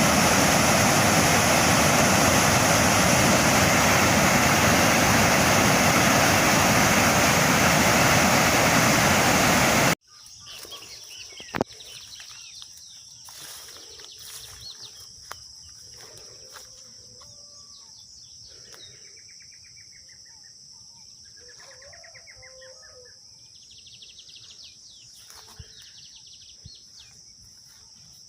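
Steady roar of a waterfall that cuts off abruptly about ten seconds in. After it, a quiet natural scene: a steady high insect drone with scattered bird chirps and an occasional click.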